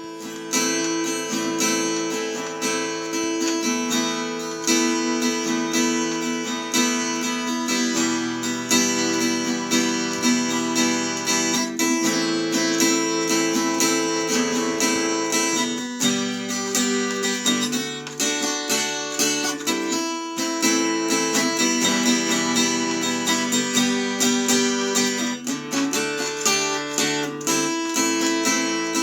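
Intro music: acoustic guitar strumming and picking chords that change every few seconds.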